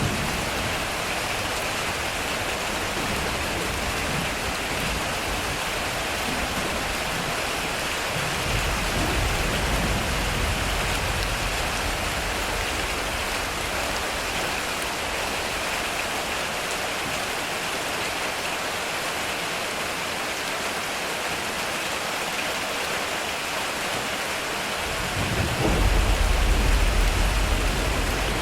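Heavy rain falling steadily on a metal roof, with low thunder rumbling about nine seconds in and a louder rumble near the end.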